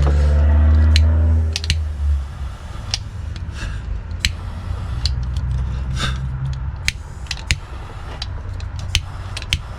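A loud, steady motor hum that stops about two seconds in, followed by scattered small clicks and ticks of small parts, wires and tools being handled at a workbench.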